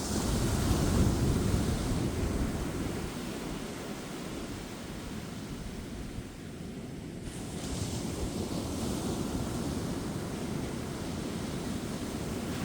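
Ocean surf breaking and washing up a beach, with one surge in the first couple of seconds and another about two-thirds of the way through.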